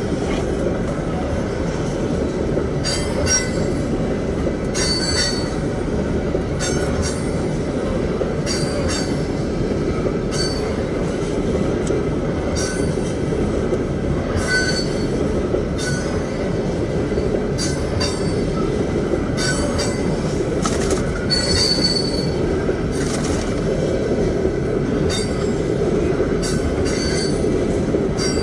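Empty crude oil train of tank cars rolling past: a steady rumble of wheels on rail, with short squeaks and clicks from the wheels coming irregularly, about once a second.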